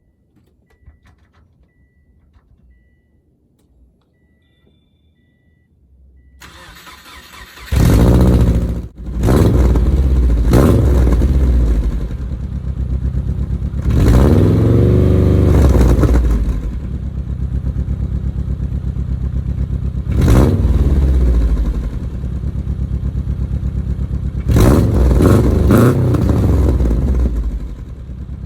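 2004 Subaru Forester 2.5X's 2.5-litre flat-four, on newly fitted Tsudo unequal-length headers, track pipe and cat-back exhaust, cranking and starting about eight seconds in, then idling loudly with several blips of the throttle, one drawn-out rev with a rising and falling pitch. Faint repeated beeping before the start.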